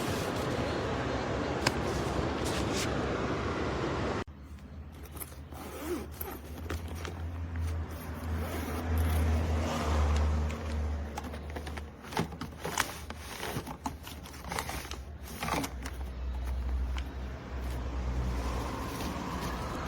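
A steady hiss that cuts off suddenly about four seconds in, followed by scattered clicks and scrapes of handling over a low rumble that swells and fades.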